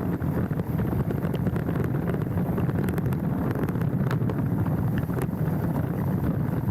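Wind rushing over a handlebar-mounted camera's microphone as a mountain bike rolls down a dirt trail, with a steady low tyre rumble and frequent small rattling clicks from the bike over rough ground.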